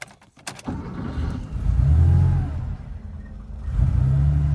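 Porsche 911SC's air-cooled flat-six cranking and firing up under a second in, after a few clicks, then running fast with the throttle held open: its speed rises, dips, and rises again to a steady high idle.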